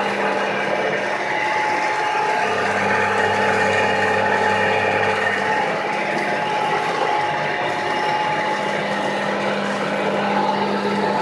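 Landini Landpower 145 tractor engine running steadily under load while pulling a plough, with a mechanical rattle over the engine note.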